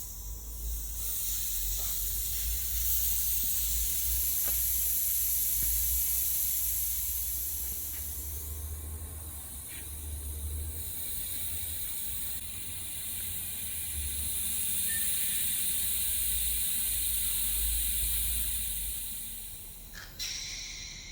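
Nitrogen gas hissing out of a mining haul truck's hydraulic steering accumulator as its remaining charge is vented. The hiss swells and eases, dies away near the end, and a short click follows.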